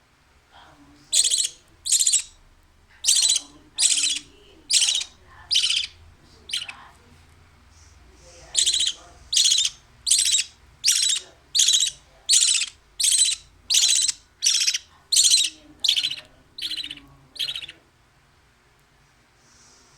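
A hand-fed baby bird's begging calls: short, harsh, high-pitched cries repeated about once every three-quarters of a second, about twenty in all, with a brief pause partway through.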